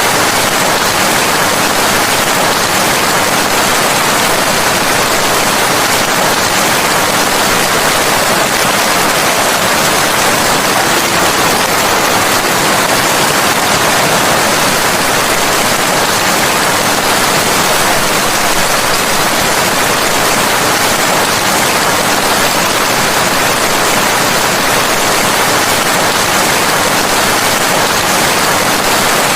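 Steady heavy rain, an even dense hiss with no distinct drops, thunder or changes.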